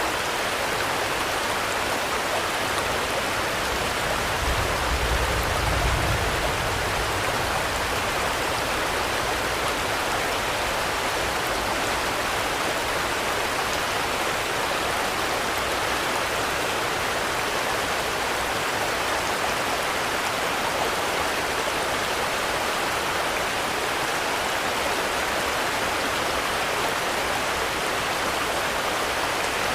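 Steady, even rainfall. A brief low rumble swells and fades about four to seven seconds in.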